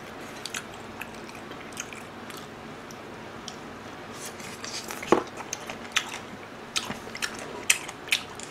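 Close-miked chewing of seaweed stems (miyeok julgi): a wet mouth sound with scattered sharp clicks and small crunches. It is sparse at first and comes much thicker from about halfway through.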